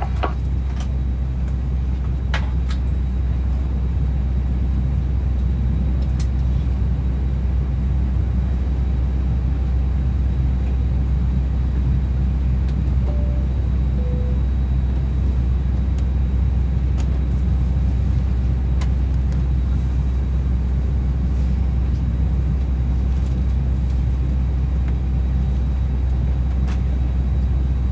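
Steady low rumble inside an Airbus A320 passenger cabin before departure, with a few faint clicks.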